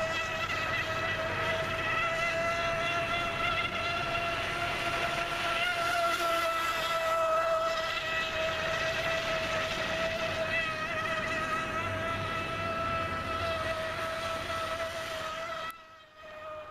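Radio-controlled boat running under a brushless outrunner motor through a Kyosho Dolphin outboard's flex shaft, giving a steady high-pitched whine that wavers a little in pitch. It stops abruptly near the end.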